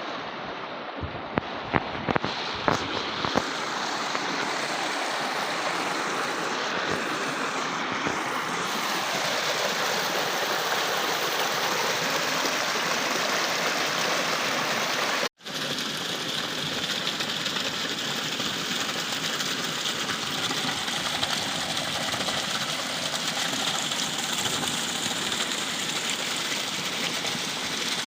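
Flowing water rushing steadily, as from a stream or waterfall. A few sharp clicks sound in the first three seconds, and the sound cuts out for a moment about fifteen seconds in.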